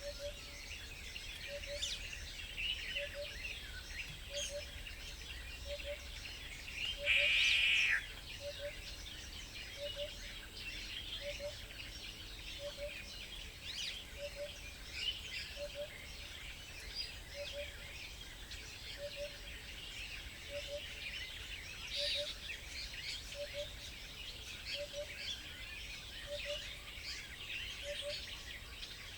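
Wild songbirds chirping and calling at a bird feeder, many short chirps throughout, with one louder call about a second long some seven seconds in. A faint low double tick repeats steadily under them, about every three-quarters of a second.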